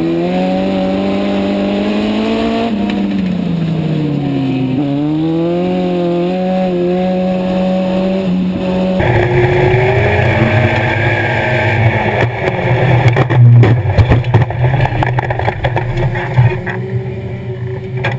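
Legend race car's Yamaha motorcycle engine running at racing speed, its pitch dipping and climbing back as the throttle is lifted and reapplied. About halfway through the sound cuts abruptly to a louder, rougher engine note with rushing noise and a string of sharp knocks and jolts.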